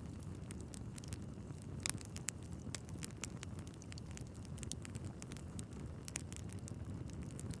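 Wood fire burning in a fireplace: a steady low rumble of flames with irregular pops and crackles from the logs, a few sharper pops standing out.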